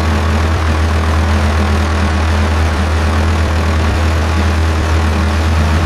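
Tractor engine running steadily: a loud, unchanging deep drone with an even hiss over it.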